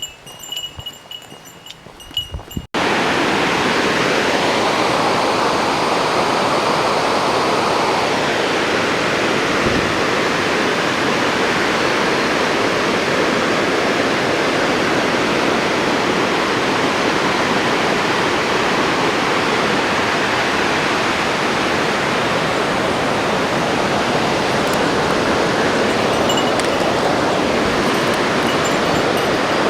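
Waterfall rushing: loud, steady, unbroken water noise that cuts in suddenly about three seconds in, after a quieter stretch with faint high steady tones.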